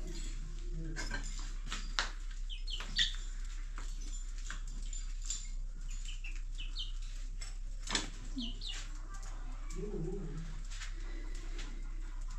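Scattered short, high bird chirps, with a few sharp clicks or knocks, the loudest about two, three and eight seconds in.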